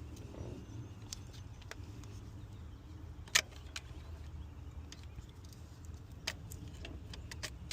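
Scattered light clicks and clinks of pliers working at a coolant temperature sensor in a plastic thermostat housing, one sharper click about three and a half seconds in, over a steady low rumble.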